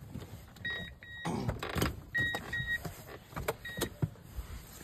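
Handheld OBD-II code reader beeping as its buttons are pressed: short high electronic beeps, mostly in pairs and at uneven spacing, over handling clicks and a rustle.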